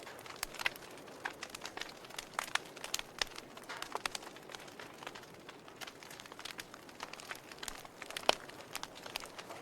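Wood fire in a fireplace crackling, with irregular sharp pops over a soft steady hiss; the loudest pop comes a little past eight seconds in.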